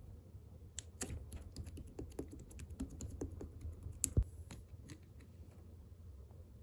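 A quick run of light clicks and taps, a dozen or more over about four seconds, with one heavier knock about four seconds in.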